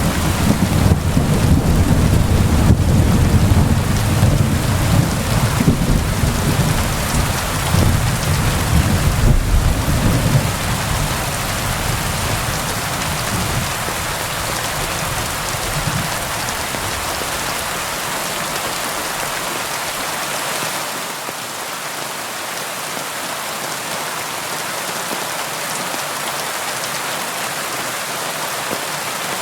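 Steady rain falling, with a long rolling rumble of thunder that dies away over roughly the first half, leaving only the even hiss of rain.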